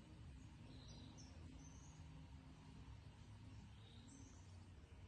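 Near-silent outdoor ambience: a low steady background rumble with a few short, faint bird chirps about one, two and four seconds in.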